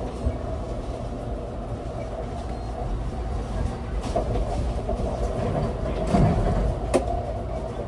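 Moving passenger train heard from inside the car: a steady low rumble of the wheels and car body, with a heavier thud about six seconds in and a sharp click about a second later.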